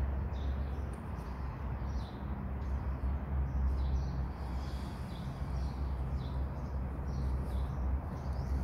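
Small birds chirping in short, high-pitched calls repeated every second or so, over a steady low hum.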